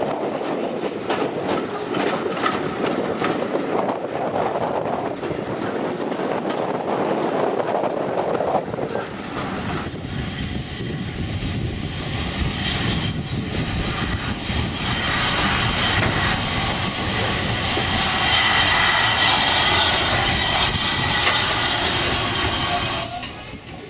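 Steam train running along the track, its wheels clicking over the rail joints. From about ten seconds in, a higher hissing sound with a faint squeal builds up and stays loud before dropping off near the end.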